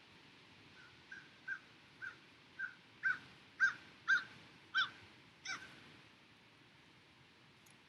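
A bird calling: a series of about nine short calls, about two a second, growing louder and then fading, over a faint steady hiss.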